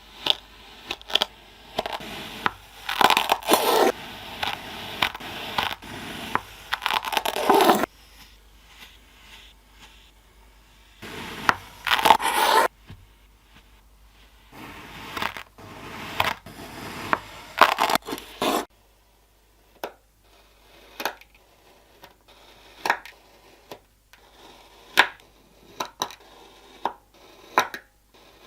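Kinetic sand being worked by hand, with irregular bursts of crushing and scraping, then a run of separate short, sharp crunches about once a second in the last third.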